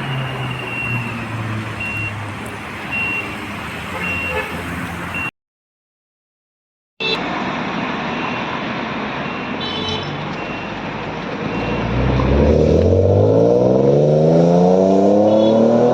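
Street traffic with a high electronic beep repeating about every half second, broken by a second and a half of dead silence about five seconds in. Near the end a car engine accelerates hard, its note climbing steadily and getting louder.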